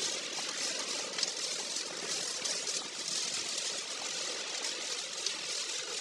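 Steady hiss of typhoon wind and rain heard from inside a moving car, with a couple of faint ticks.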